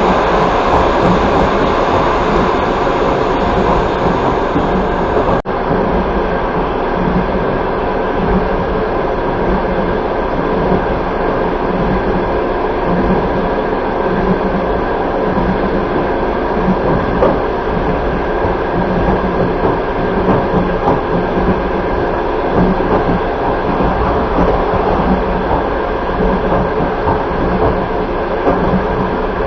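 Steady running noise of a passenger train carriage at speed: a continuous rumble of wheels on rails, heard from inside the carriage. There is a brief break in the sound about five seconds in.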